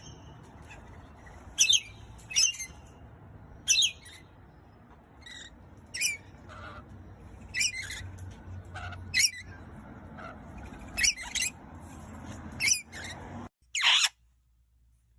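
Parrot giving short, sharp, high-pitched squawks, roughly one a second, about a dozen in all, over a faint low room hum that cuts off abruptly near the end.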